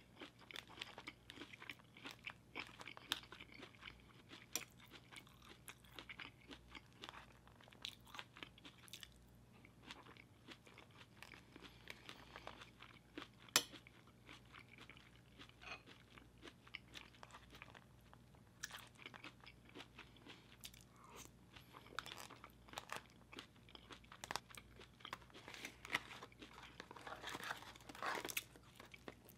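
Close-miked chewing of spoonfuls of corn kernels: quiet, quick, moist crunches and mouth sounds in a steady stream. One sharp click comes about halfway through.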